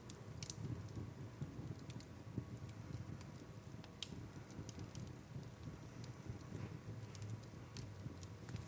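Campfire burning: a steady low rumble with scattered sharp crackles and pops at irregular intervals.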